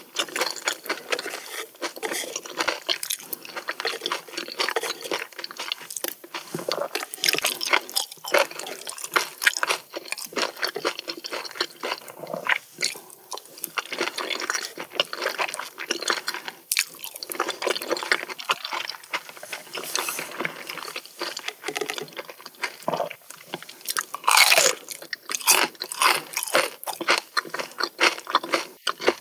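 Close-miked chewing of a mouthful of seafood: a dense run of short crunching, clicking mouth sounds, loudest about 24 seconds in.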